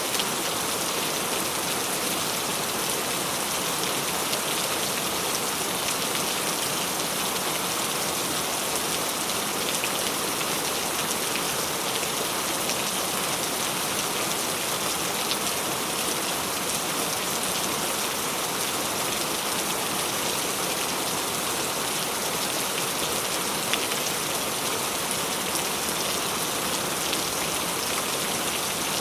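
Tropical rain falling steadily: an even hiss of rain on surfaces, flecked with small drop ticks.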